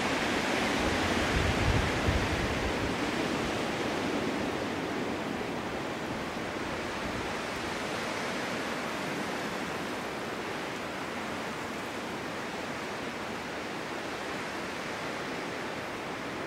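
Wind blowing steadily through a snowstorm. A stronger gust with a low rumble comes about a second or two in, then it eases a little.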